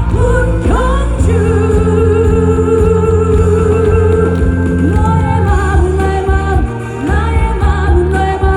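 Korean trot song sung by a female singer over a loud backing track with a heavy bass, her held notes wavering with vibrato.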